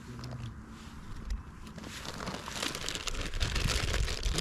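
Crinkling, rustling noise with many small crackles, growing louder through the second half.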